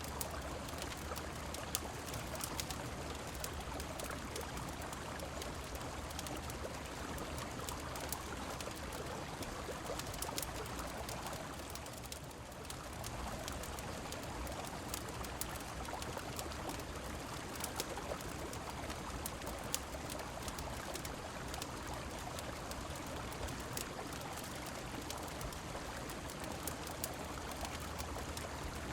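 Steady rushing of river water and rain, with scattered sharp crackles of a wood fire throughout. The water noise dips briefly about twelve seconds in.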